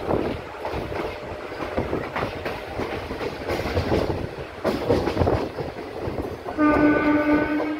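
A passenger train coach running along the track, heard from an open doorway: wheels clatter over rail joints with a steady running rush. Near the end a train horn sounds one steady note for about a second.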